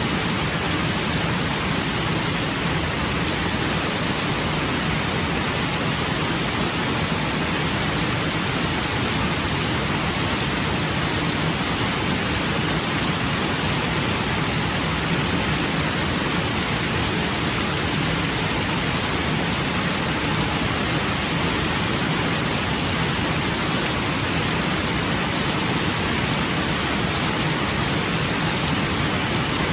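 Steady rain falling, an even hiss with no breaks or thunder claps.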